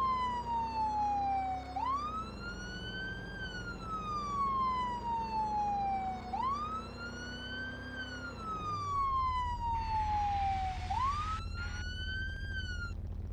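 Police car siren on its wail setting: a rising and falling tone that sweeps up quickly and slides slowly down, repeating about every four and a half seconds, and cutting off near the end. A short hiss comes in for about a second and a half past the middle.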